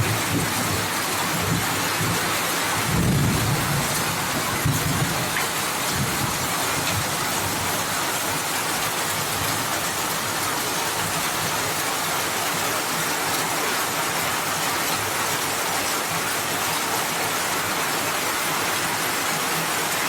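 Heavy rain falling steadily, a dense even hiss, with a few low rumbles in the first five seconds.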